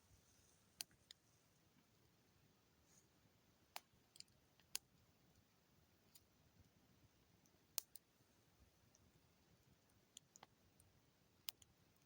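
Wood campfire crackling faintly: about a dozen sharp, irregular pops, the strongest about four and eight seconds in.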